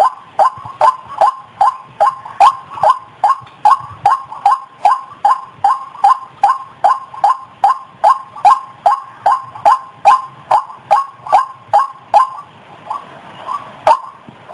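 White-breasted waterhen (ruak-ruak) calling in a fast, steady series of short falling notes, about two to three a second. The notes break off briefly near the end, then start again.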